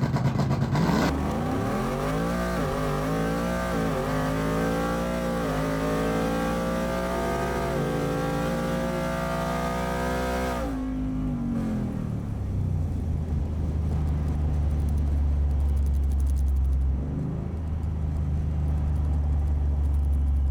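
Ford F-150 pickup's engine accelerating hard through the gears. Its pitch climbs for about ten seconds, with a brief dip at each shift, then falls away to a low, steady rumble.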